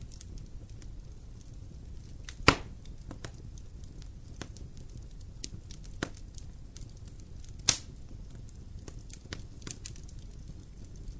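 Wood fire crackling in a fireplace, with a low steady rumble of flame and scattered small crackles. Two loud sharp pops come from the burning wood, one about two and a half seconds in and one near the three-quarter mark.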